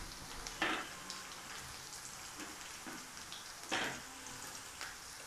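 Sliced onions, shallots and ginger frying in hot oil in a wide metal pan: a faint, steady sizzle with two short louder crackles, about a second in and near four seconds.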